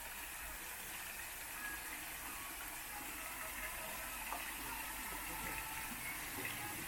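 Steady hiss of rain falling, with a few faint, short bird chirps through it.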